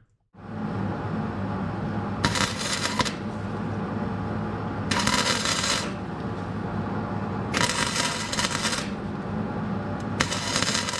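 A power tool's motor running steadily while cleaning out a rusty car floor pan, with four bursts of gritty rattling and scraping about every two and a half seconds.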